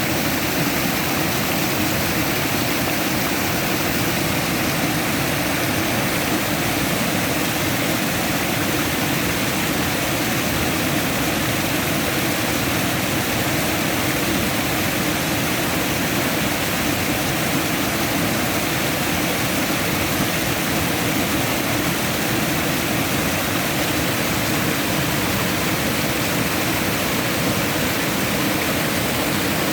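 Steady, unbroken rush of flowing water, with no changes or distinct events.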